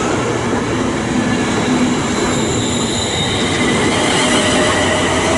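Electric passenger train moving through the station: a steady, loud rumble of wheels on rail with thin wheel-squeal and whine tones over it.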